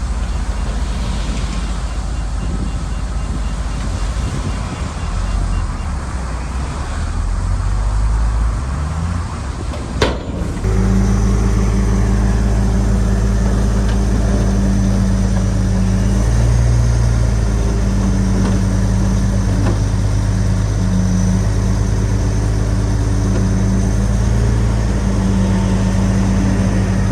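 Shantui bulldozer's diesel engine running steadily while it works. About ten seconds in the sound changes abruptly to a steadier, deeper engine hum.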